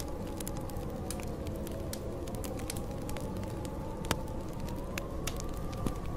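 Snowstorm wind howling in a slowly wavering pitch, over a fire crackling with scattered sharp pops, one louder pop about four seconds in.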